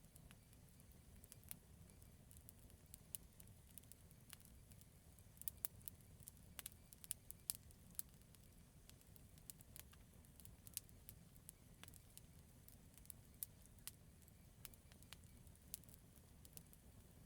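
Campfire burning wood, crackling faintly with scattered sharp pops and snaps that come thickest a few seconds in, over a steady low rumble.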